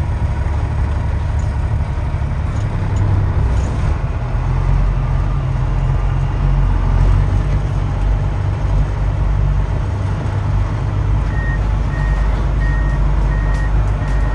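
Heavy diesel dump truck engine running with a steady low rumble. About two-thirds of the way in, a reversing alarm starts beeping at an even pace.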